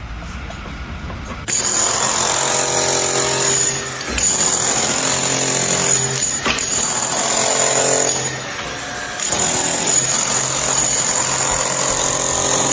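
A loud power tool or construction machine running in long bursts, about a second and a half in, again after a short break near four seconds, and again after a pause of about a second around eight seconds, with a steady high whine over a low hum.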